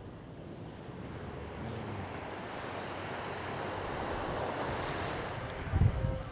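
Surf on a sandy beach: a wave breaks and washes up, its hiss swelling over a few seconds and then fading. Near the end a short, louder gust of wind buffets the microphone.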